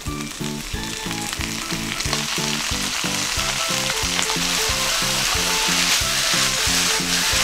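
Spinach and pork stir-frying in an oiled frying pan: the sizzle builds during the first couple of seconds as the freshly squeezed, still-damp spinach hits the hot pan, then holds steady while the pan is tossed.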